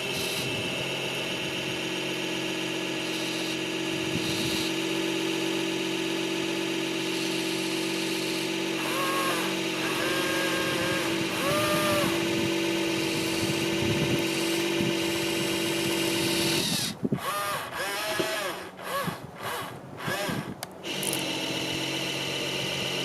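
Small electric water pump of a toy RC fire truck whining steadily as it sprays, then cutting in and out in short bursts about three-quarters of the way through before running steadily again.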